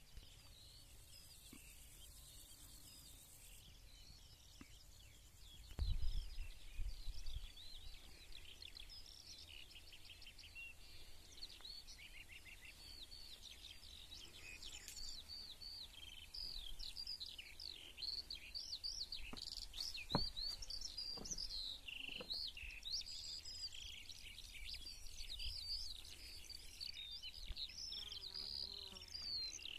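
Birds singing, a chatter of many short chirping notes that is sparse at first and grows dense from about twelve seconds in. A brief low rumble about six seconds in is the loudest moment, and a few light knocks come near the middle.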